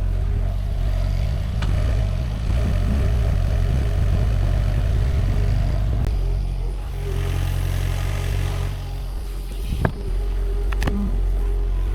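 Sany SY50U mini excavator's diesel engine running steadily under digging work, with two sharp knocks near the end.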